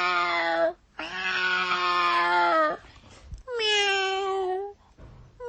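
A cat meowing: long, drawn-out meows one after another with short pauses between them, the last one higher-pitched.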